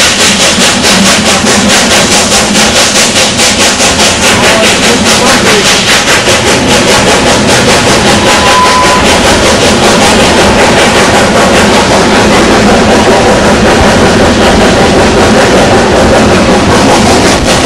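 Narrow-gauge steam train in motion: a loud rhythmic beat of several pulses a second over a dense noise, evening out into a steady noise about ten seconds in.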